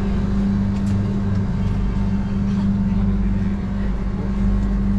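Steady drone inside a passenger train carriage: a constant low hum with a deep rumble under it.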